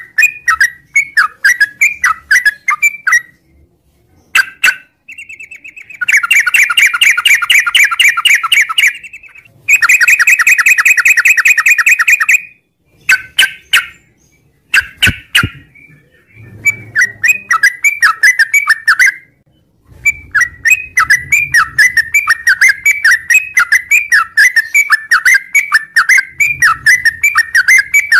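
Yellow-vented bulbul (trucukan) in long continuous 'ngropel' song: fast runs of repeated chirping notes, with two long dense trills in the middle and a few short pauses.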